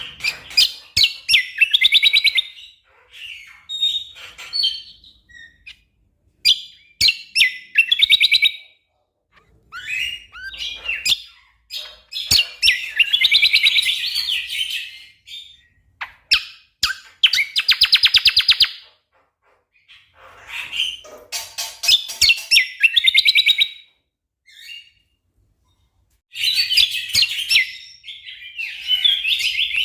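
Cucak kombo songbird singing loud bursts of rapid, tightly packed chattering phrases, each lasting a second or two, with short pauses between them.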